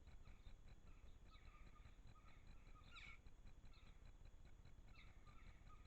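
Faint calls of small garden birds: short chirps, with a quick falling note about three seconds in and another near the end, over a faint high ticking that repeats several times a second.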